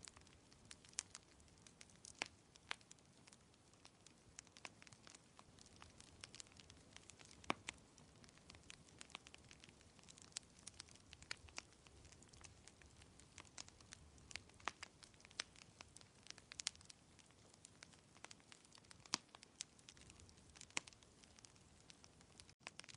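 Wood fire crackling in a fireplace: irregular sharp pops and snaps, a few louder than the rest, over a faint steady hiss.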